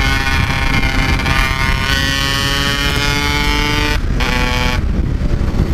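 Yamaha RX-King's 135cc two-stroke single-cylinder engine pulling under acceleration while riding, its pitch climbing steadily for about four seconds, then cutting out briefly twice near the end, typical of gear changes. Wind rush on the microphone runs underneath.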